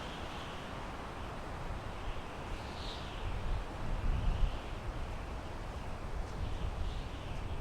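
Wind blowing through pine trees: a steady rushing hiss over a low gusty rumble that swells about four seconds in. A few faint, short, high chirps sound over it.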